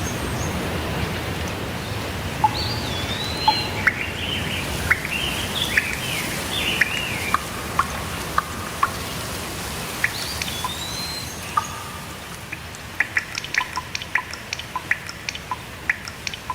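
Steady rain with birds singing over it, in short gliding, warbling phrases. Near the end the rain gets a little quieter and a quick run of short sharp chips or ticks takes over.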